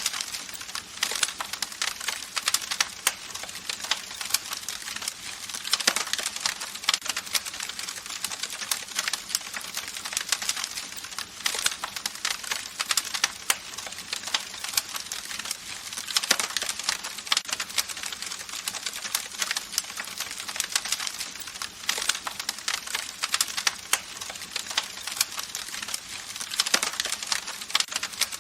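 Campfire crackling: a dense, steady run of small snaps and pops, with a few louder pops every several seconds.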